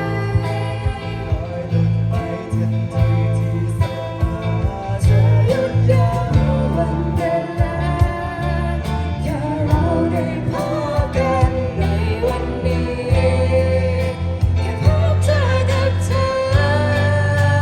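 A band playing a song with a lead singer over a steady bass line.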